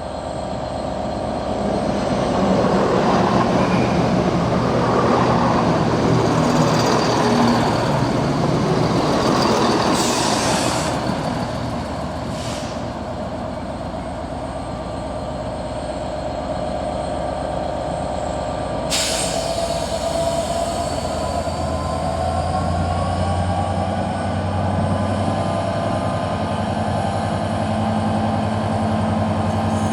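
Diesel locomotive-hauled passenger train: loud wheel and rail noise as it runs past, with a few short high-pitched hisses or squeals. In the second half the locomotive's engine hum settles in under a whine that rises slowly in pitch as the train pulls away.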